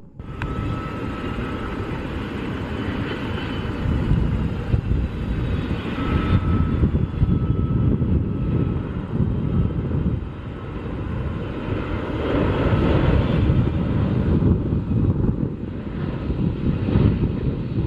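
Twin turbofan engines of a Boeing 767-200F freighter on its landing run, a steady loud jet rumble with a faint high whine, swelling louder a couple of times.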